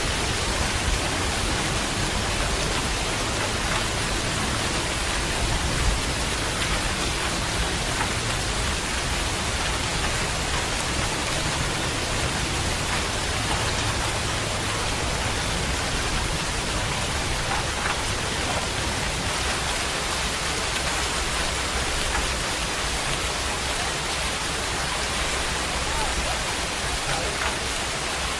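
Steady rain falling with an even hiss, a few single drops ticking out above it.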